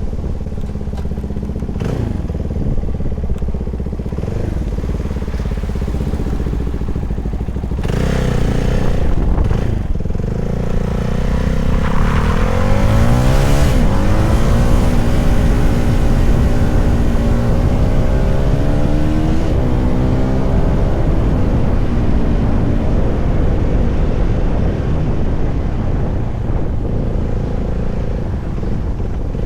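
CFMoto 300SR motorcycle's single-cylinder engine running under way. The revs rise and drop a few times, climb strongly about halfway through, then hold a steadier, higher note with small rises and dips.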